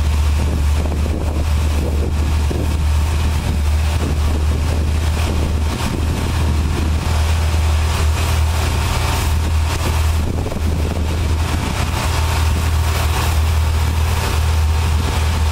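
Automated truck wash running: a steady low machine drone under a constant hiss.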